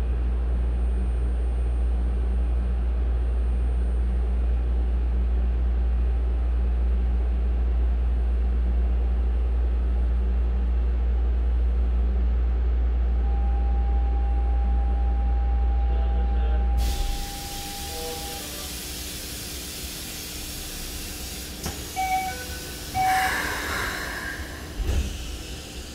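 A Keikyu 1000-series commuter train standing at a platform: a steady low hum from its under-floor equipment runs until about seventeen seconds in, then cuts off suddenly. A steady hiss of air takes over, with a few short tones and a brief burst near the end.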